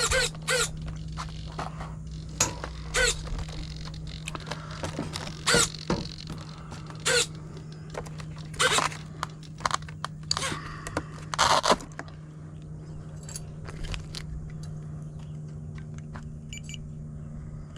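Handling noises: scattered clicks, scrapes and rustles as the flight battery is taken out of the RC plane and checked. A steady low hum runs underneath.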